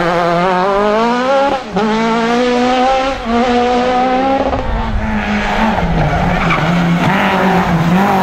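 Rally car engine at full throttle, its note climbing through the revs and dropping sharply at each upshift, twice in the first few seconds. Later the note settles lower, then rises again near the end.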